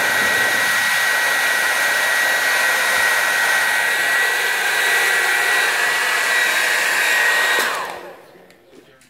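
Hand-held blow dryer running steadily: a loud rush of air with a high, steady motor whine. Near the end it is switched off and the whine falls away as the motor spins down.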